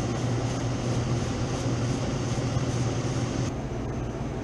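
Commercial refrigeration condensing unit running: a steady low hum from the compressor and condenser fan under a broad airy hiss. The hiss drops away abruptly about three and a half seconds in while the hum carries on.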